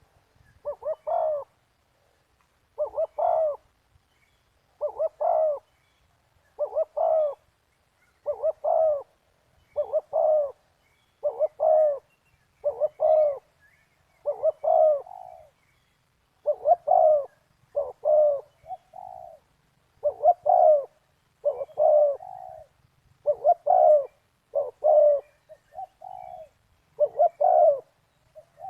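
Spotted dove cooing: short phrases of two or three coos, repeated about every two seconds, with a few fainter extra coos tagged on after some phrases.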